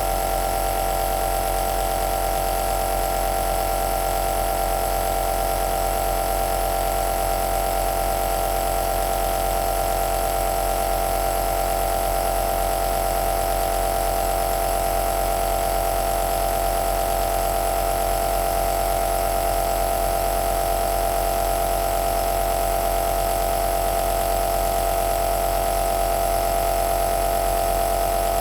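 Home nebulizer's compressor running steadily: a constant mechanical hum with a strong mid-pitched drone over an even hiss of air.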